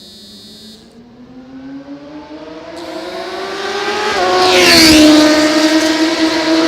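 Superbike engine approaching while accelerating, its pitch rising steadily as it grows louder, then passing close by about five seconds in and running on.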